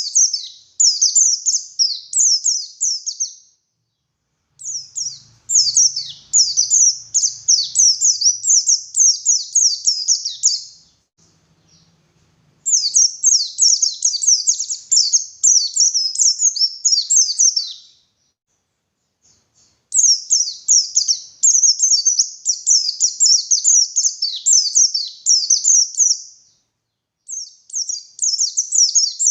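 White-eye (pleci) singing a rapid, high twittering song in long bursts of several seconds, with brief pauses between them.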